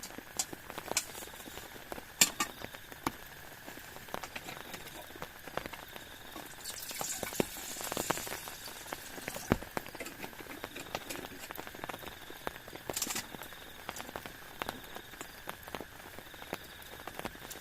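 Rain pattering and dripping as irregular sharp taps over a faint hiss, swelling briefly about seven to nine seconds in.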